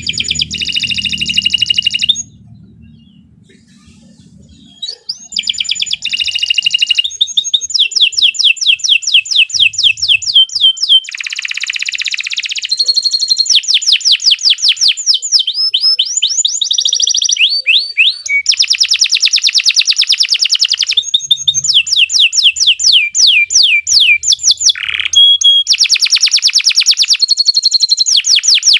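Domestic canary singing a long, loud song of fast trills and rolling repeated notes, changing from one trill to the next every second or two. There is a pause of about three seconds near the start, after which the song runs on almost without a break.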